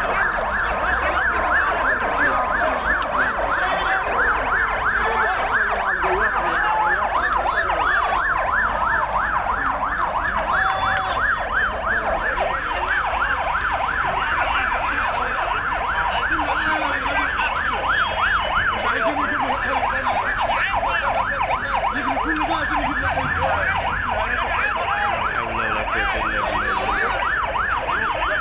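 Emergency-vehicle sirens on the yelp setting, several overlapping, each sweeping quickly up and down in pitch about three times a second without a break.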